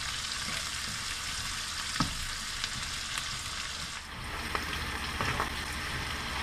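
Chopped onions, mushrooms, bacon and sausage sizzling as they brown in butter and avocado oil in a frying pan, stirred with a spatula. A knock about two seconds in and a few small clicks a couple of seconds later, the spatula against the pan.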